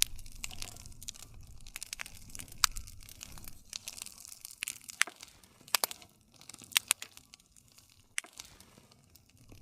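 Wood campfire crackling, with a string of sharp pops, a few of them much louder than the rest, over a steady low rush of flame.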